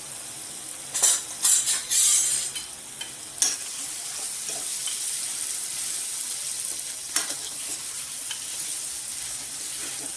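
Mawa (khoya) frying in ghee in a metal kadhai over a low flame, with a steady high sizzle. A slotted metal spatula stirs and scrapes it against the pan, with a run of loud scrapes about a second in, another shortly after, and one more around seven seconds in.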